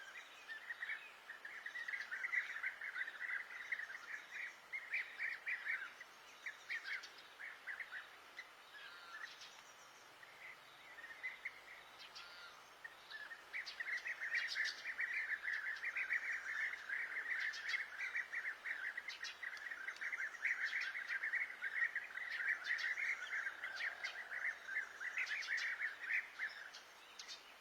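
A songbird singing a long, rapid twittering song in two long bouts, the second starting about halfway through and running on for over ten seconds.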